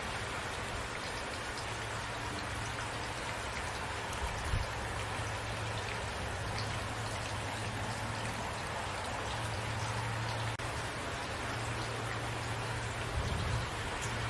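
Steady rain falling, with individual drops ticking among the even hiss, over a low steady hum. The sound drops out for a split second about ten seconds in.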